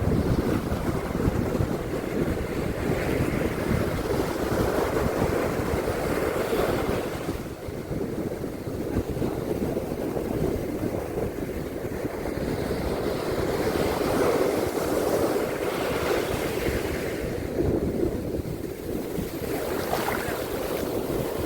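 Surf washing onto a beach, a continuous rush of waves that swells and eases every several seconds, with wind rumbling on the microphone.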